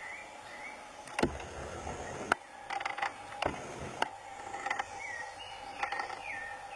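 Forest ambience: repeated short chirping calls and a steady high hum, broken by several sharp clicks and knocks between about one and four seconds in.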